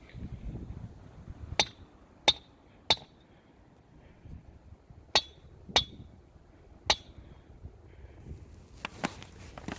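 Stakes being driven into the ground with a hammer: six sharp strikes in two groups of three, with a few lighter knocks near the end.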